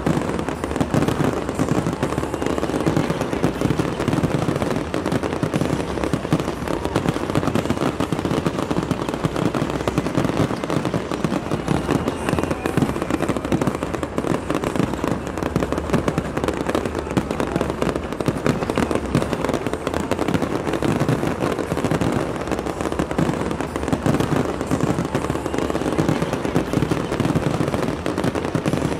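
Fireworks display: a dense, unbroken barrage of aerial shells bursting and crackling, with bangs following one another too fast to count.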